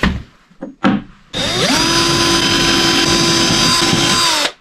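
Electric drill motor spinning up, running steadily at full speed for about three seconds without load, then winding down, after two short knocks.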